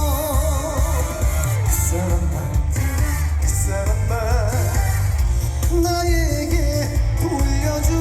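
Live amplified trot song: a male vocalist sings with strong vibrato over a band backing track with heavy bass and drums.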